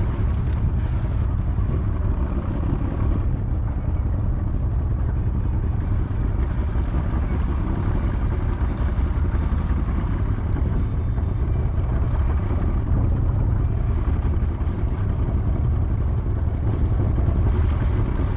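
Outboard motor of a small fishing boat running steadily, a continuous low rumble with no change in speed.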